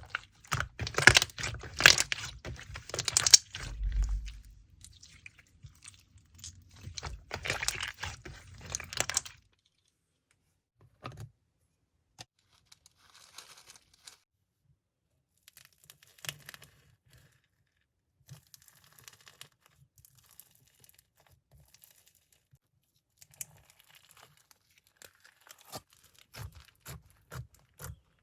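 Crinkling and crackling handling noise with sharp little clicks, dense for the first nine seconds or so, then only sparse faint crinkles, growing busier again near the end.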